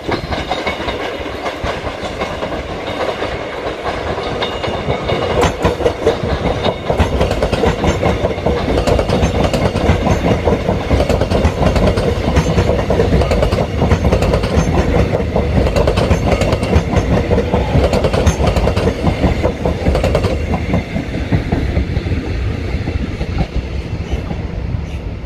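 Two Melbourne Metro electric suburban trains passing on adjacent tracks, wheels clicking over the rail joints. The noise builds over the first few seconds, stays loud through the middle, then fades near the end.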